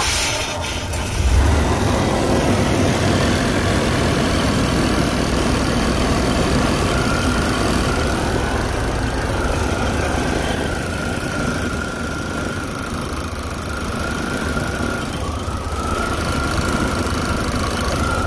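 A 1989 Chevy Astro's 4.3-litre throttle-body-injected V6 is cranked with brake cleaner sprayed into the throttle body; it catches about a second in and then runs steadily. A thin steady whine joins about seven seconds in.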